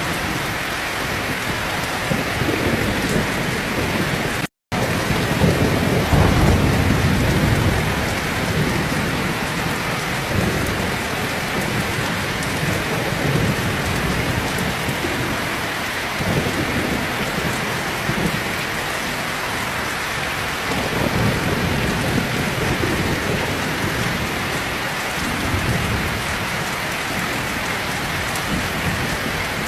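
Heavy rain falling steadily, with thunder rumbling low several times, loudest just after a split-second gap in the sound about four and a half seconds in.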